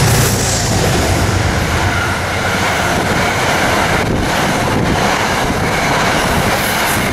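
A train running on the rails: a loud, steady rumble with the clatter of wheels over the track.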